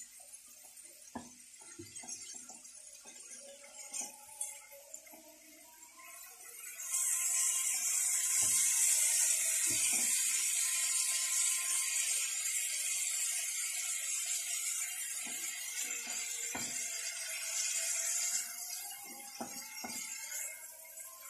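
Chicken breast strips and sliced onion frying in a non-stick pan, stirred with a silicone spatula: soft scrapes and taps of the spatula against the pan, then a loud sizzle that starts suddenly about seven seconds in and eases off a few seconds before the end.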